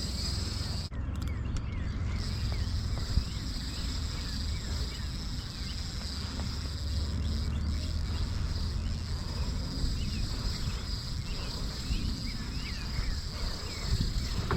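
Insects droning steadily at a high pitch, with many short bird chirps over them and a low rumble underneath.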